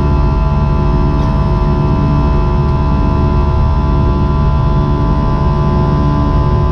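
Steady mechanical hum: a dense set of even, unchanging tones over a low rumble, holding at one pitch throughout.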